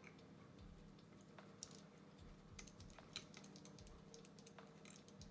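Faint, irregular small clicks and ticks from fingers and a small hand tool working thread and materials on a fly at a fly-tying vise, over a low steady hum.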